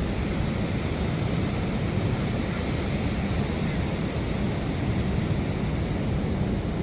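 Ocean surf breaking steadily, with wind rumbling on the microphone.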